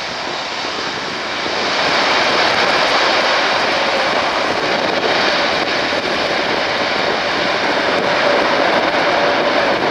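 Jet airliner engines, loud, swelling about a second and a half in and then holding steady, with a faint steady whine.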